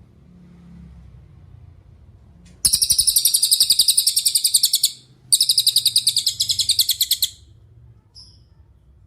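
Cililin songbird singing two rapid, high-pitched trills of about two seconds each, about ten notes a second, with a short break between, then one brief faint note.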